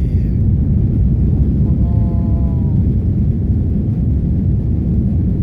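Airbus A330 cabin noise during the climb after takeoff: a steady, loud, low roar of the jet engines and airflow.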